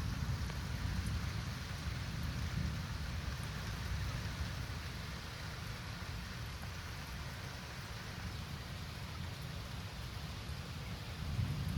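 Steady rain falling, with a low rumble underneath that swells near the end.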